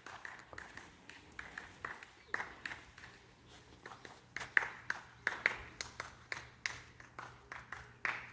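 Footsteps of a person walking along a path at about two steps a second.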